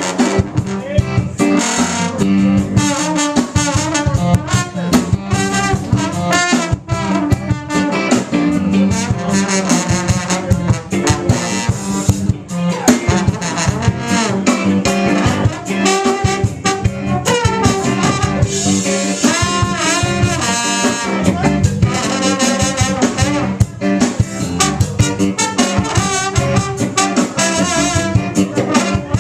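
Upbeat band music with a horn section of trombone, trumpet and saxophone over a steady beat.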